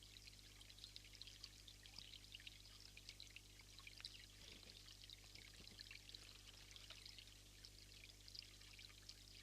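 Faint, steady trickle of running water, a dense patter of tiny splashes, over a low steady electrical hum.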